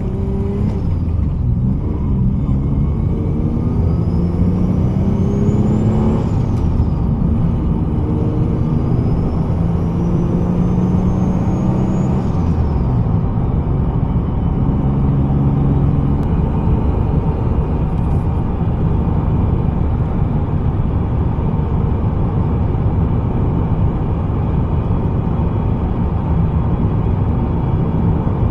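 Turbocharged Acura TL Type S 3.5-litre V6 heard from inside the cabin, accelerating hard twice: engine pitch climbs with a rising turbo whistle, then drops at each gear shift. After the second shift it settles into steady cruising with road noise.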